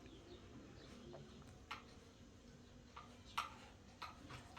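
A few faint, sharp clicks or taps at uneven intervals, the loudest about three and a half seconds in, over quiet room tone.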